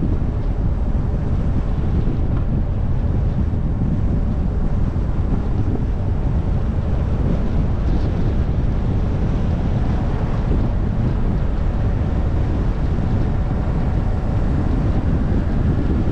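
Wind buffeting the microphone of an action camera clipped to the bonnet of a moving car, a steady low rumble.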